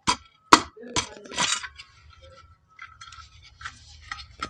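Metal parts of a 125 mm cutter's gearbox and bearing being handled and fitted by hand: three sharp clicks in the first second, a short scrape, then lighter scraping and a few small clicks near the end.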